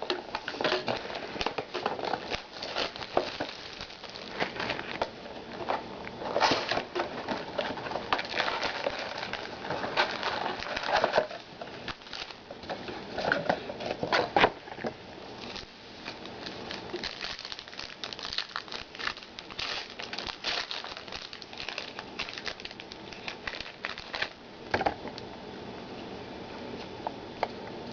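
Trading-card packaging being opened by hand: wrapper crinkling and rustling in irregular bursts, with small clicks and scrapes of card and cardboard.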